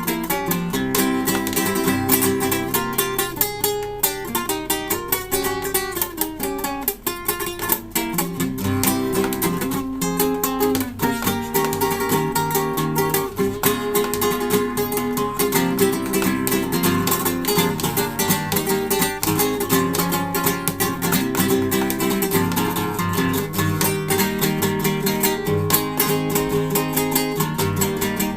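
Classical guitar played in a lively, fast piece, with a quick run of plucked notes and chords.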